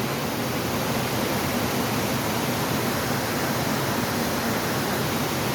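Waterfall rushing steadily over rocks, an even hiss of falling water close to the microphone.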